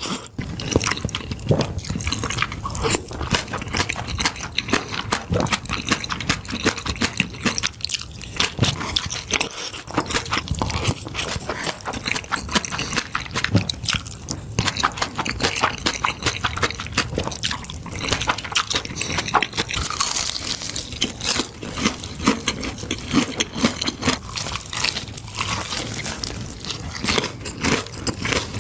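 Close-miked eating of creamy pasta: chewing and slurping, a dense, steady stream of small mouth clicks and smacks.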